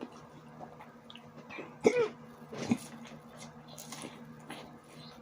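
A man eating spicy sausages in an eating challenge coughs or clears his throat in two short bursts about two seconds in, with soft mouth clicks and a steady low hum underneath.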